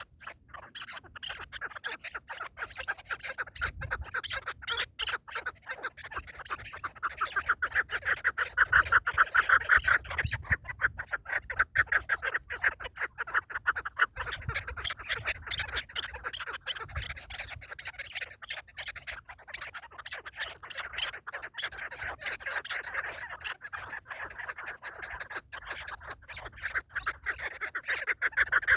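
Partridge calling: a long, rapid chatter of repeated clucking notes, loudest about a third of the way in and again near the end.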